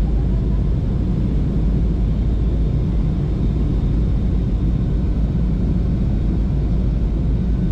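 Steady low rumble of a vehicle in motion, unbroken and even throughout.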